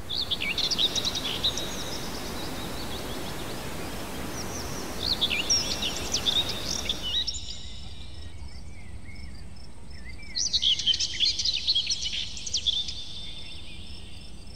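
Birds chirping and calling in bursts over a steady noisy hiss that cuts off abruptly about seven seconds in, leaving the bird calls over a quieter background.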